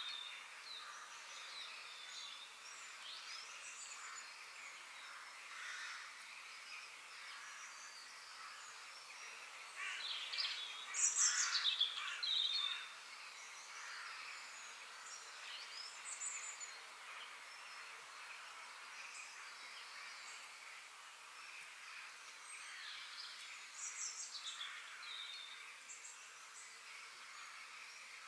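Several forest birds singing and calling over a steady high hiss, with a louder run of calls about ten seconds in.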